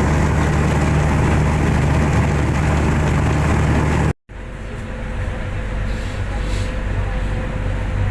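Steady low drone of a fast ferry's engines. About four seconds in it cuts off abruptly, and a quieter steady low hum with a faint thin tone follows.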